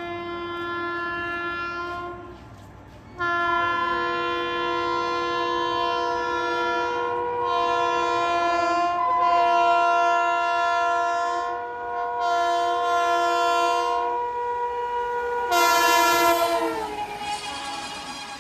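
Indian Railways electric locomotive horn: a short blast, a brief pause, then a long multi-tone blast whose pitch falls near the end as the train passes at speed. A rush of passing-train noise comes in under the horn toward the end.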